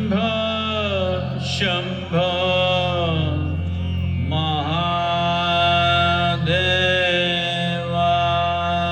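Devotional mantra chanting set to music: a voice sings long held notes, each sliding up into place, over a steady low drone.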